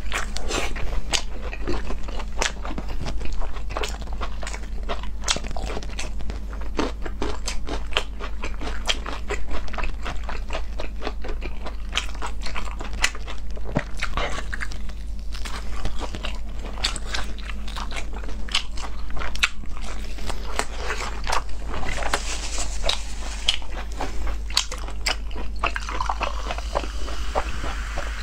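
Close-miked biting and chewing of spicy braised pork large intestine, with many short mouth clicks. Near the end, beer poured from a can into a glass, fizzing.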